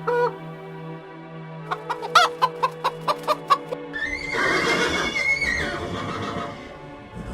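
Background music with plucked notes, then about four seconds in a loud animal call over the music, lasting about three seconds.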